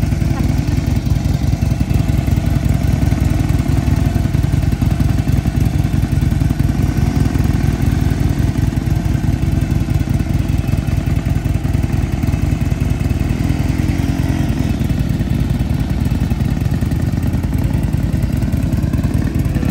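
Harley-Davidson V-twin motorcycle engine running steadily at low revs, with an even, rapid low pulsing.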